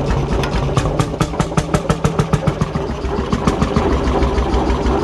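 1957 McDonald Type YD two-stroke hot-bulb engine running slowly, held down by a governor that is too soft. For a couple of seconds after the start its beats stand out sharply, about six a second, then it settles back to a steady run.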